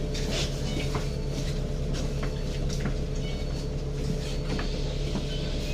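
Busy street ambience: a steady engine-like hum with scattered clicks, knocks and clatter over it.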